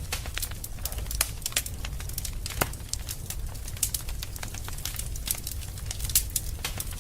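Wood fire burning in a fireplace, crackling and popping irregularly over a low steady rumble, with a sharper pop about two and a half seconds in.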